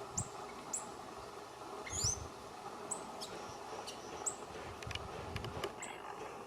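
High, thin bird chirps, each sliding down in pitch, repeated about every half second, with a more complex, gliding call about two seconds in. A few faint clicks come near the end.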